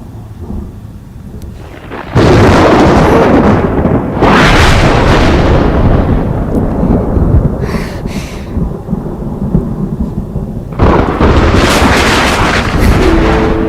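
Thunderstorm: three sudden loud thunderclaps, about two, four and eleven seconds in, each rolling on in a long fading rumble.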